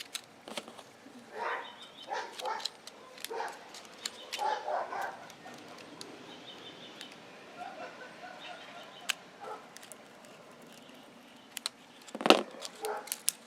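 A dog barking several times in the first five seconds, with small sharp clicks of plastic packaging being handled throughout and one loud sharp knock near the end.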